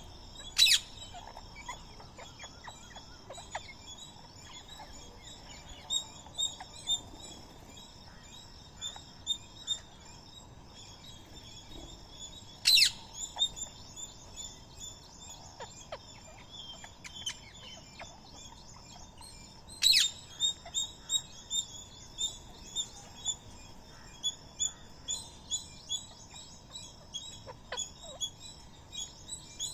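Many birds chirping and twittering without a break, with three loud, shrill calls cutting through about a second, thirteen seconds and twenty seconds in.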